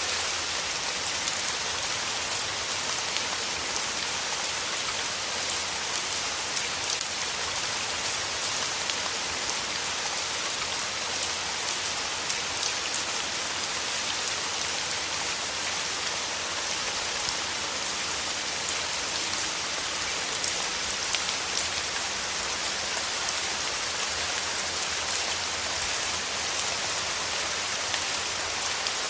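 Steady rain tapping on a windowpane, a dense hiss of drops with many small individual ticks against the glass.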